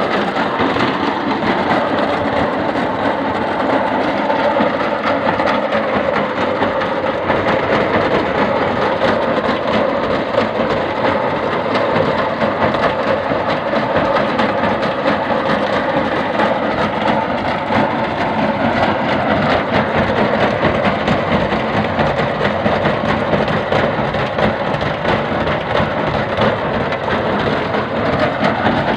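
Soil grinding and sieving machine running steadily, a loud continuous mechanical noise with a fine, dense rattle.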